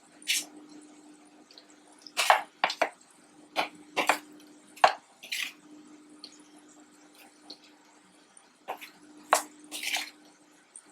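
Short wet splashes and taps as chicken strips are dipped into a milk-and-egg mixture and knocked against the bowl, about ten separate sounds spread through, over a faint steady hum.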